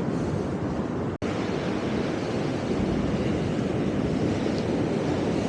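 Ocean surf breaking and washing up the beach: a steady rush. It cuts out for an instant about a second in.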